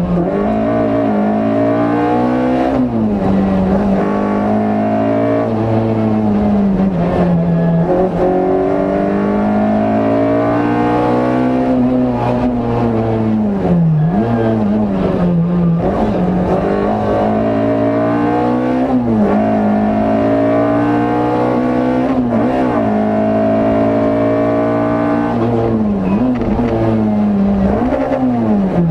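Rally car engine heard from inside the cabin under hard driving. It revs up again and again through the gears, and the pitch drops sharply at each gear change or lift, every few seconds.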